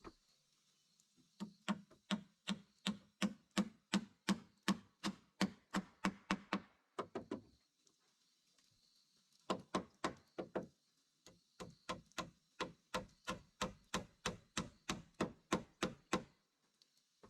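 A tool striking in a steady rhythm of about three blows a second, in two runs of some six seconds each with a short pause between.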